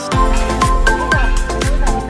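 Background electronic dance music with a deep, punchy kick drum about twice a second. The beat drops in right at the start.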